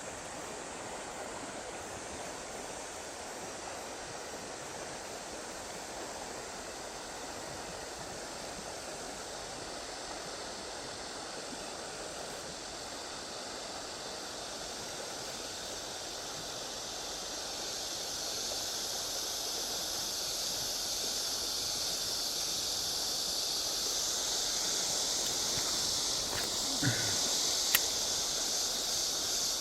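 Steady rush of flowing river water, growing louder and hissier in its second half, with a single sharp click near the end.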